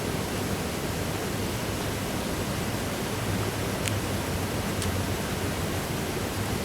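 Steady hiss and low rumble of noise with no clear source, with two faint ticks about four and five seconds in.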